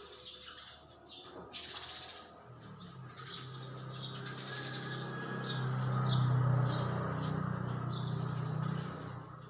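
A bird chirping in quick short calls for several seconds, over a low steady hum that swells toward the middle and fades near the end.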